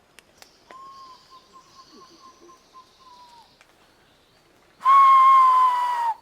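Two long, steady whistled notes at the same pitch. A faint one comes first, wavering slightly and dropping at its end. A few seconds later a much louder, close one follows, sagging slightly in pitch before it stops abruptly.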